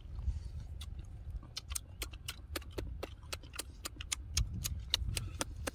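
Mouth sounds of people eating cooked duck meat with their hands: wet lip-smacking and chewing clicks, sharp and irregular, several a second, over a low rumble.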